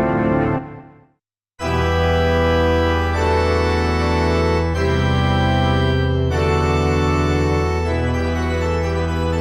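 Yamaha SY35 synthesizer: a sound dies away about a second in, then after a short silence a new organ-like patch starts with held chords that change every second or two.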